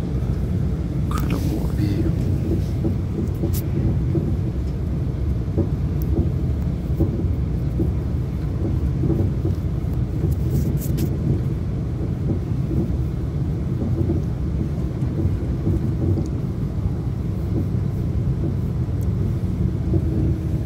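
Cabin noise of a passenger train running at high speed: a steady low rumble of wheels on the track, with a few sharp clicks about a second in and again around ten seconds in.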